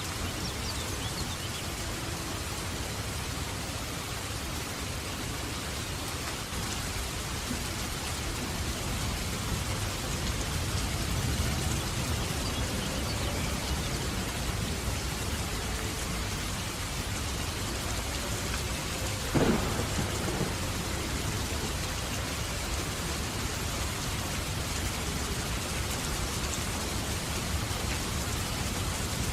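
Steady rain falling, with thunder rumbling low in the background. About two-thirds of the way in there is one short, sharp thunder crack.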